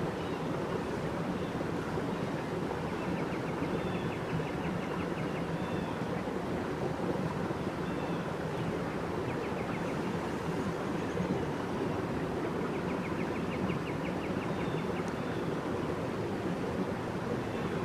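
Steady rushing nature ambience, like surf or wind, with short runs of rapid high chirping trills recurring every few seconds.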